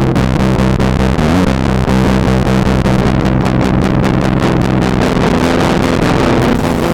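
Electric guitar played through a circuit-bent Whisper 2000 hearing-aid amplifier used as a distortion pedal, giving heavily distorted, buzzy held notes that change pitch about a second in.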